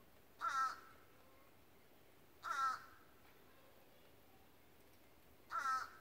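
A bird gives three short calls, each about a third of a second long, spaced two to three seconds apart.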